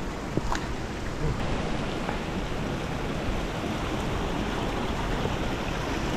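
Strong wind buffeting the microphone: a steady rushing noise with a heavy low rumble. A few faint clicks sound over it, about half a second in and again about two seconds in.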